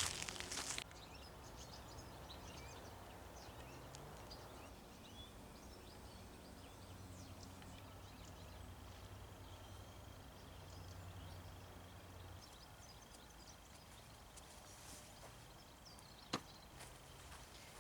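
Footsteps crunching in snow that stop about a second in, followed by quiet outdoor winter stillness with faint scattered ticks and one sharp click near the end.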